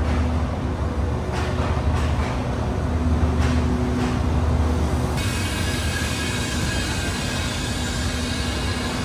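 A stationary diesel train runs with a steady low rumble and drone. About five seconds in, a steady high hiss starts up and holds.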